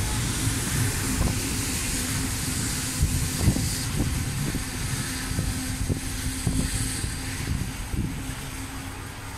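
Passenger train running, heard from on board: a steady rumble with a faint low hum, broken by irregular clacks of the wheels over rail joints.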